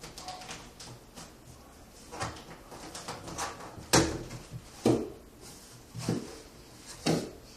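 A series of irregular knocks and bangs, about seven in all, the loudest about four seconds in.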